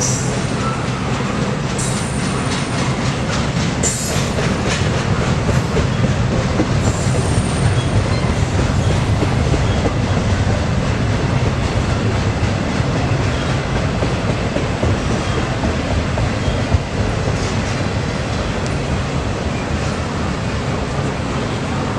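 Freight train cars rolling past, a steady loud rumble with wheel clacks over the rail joints. Sharp clicks and a brief high wheel squeal come in the first several seconds.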